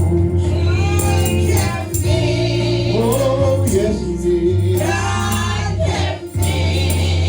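Gospel praise team singing with a live band: choir voices holding and sliding between sustained notes over a heavy, steady bass, with regular percussion strikes.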